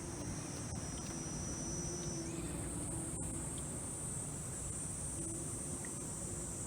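Steady high-pitched chorus of insects trilling, over a low steady rumble.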